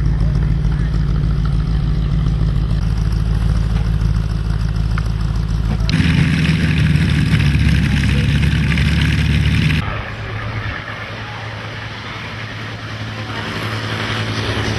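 Piston aircraft engines running steadily, the sound changing abruptly about six seconds in and again near ten seconds, where it becomes quieter and then builds again.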